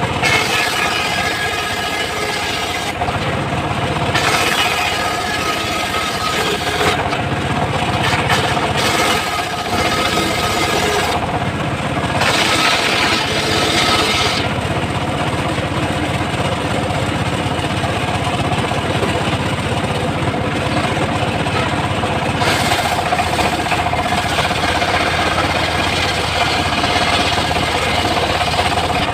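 Engine-driven homemade circular sawmill running steadily, with several louder, hissier stretches as the blade saws through teak.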